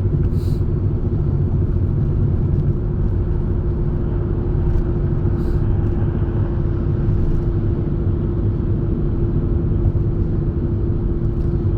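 Steady road and engine noise inside the cabin of a moving car: a low rumble with a steady hum running under it.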